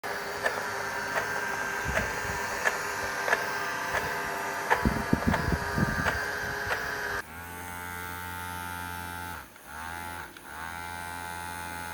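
Small electric motors running with a steady buzzing hum. For the first seven seconds the hum carries a regular click about every 0.7 seconds; then it switches abruptly to a lower, smoother hum that dips twice near the end.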